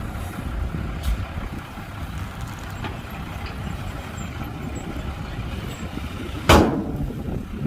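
Diesel engines of heavy earthmoving machinery running steadily, with one loud bang about six and a half seconds in.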